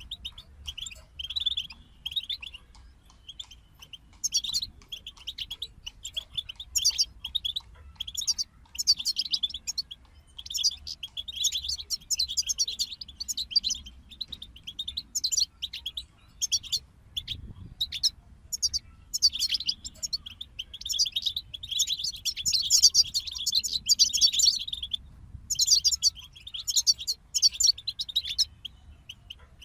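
European goldfinch singing: a run of rapid, high twittering phrases broken by short pauses.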